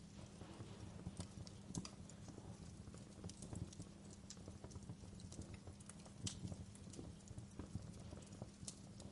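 Wood fire crackling in a fireplace: irregular pops and snaps over a steady low rumble, with a couple of sharper snaps about two and six seconds in.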